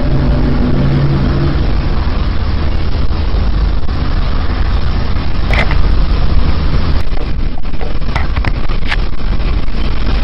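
Loud, steady rumbling roar with most of its weight in the low end, of the kind passed around as an unexplained 'groaning earth' sound. A droning tone fades out within the first two seconds, and a few sharp clicks come in the second half.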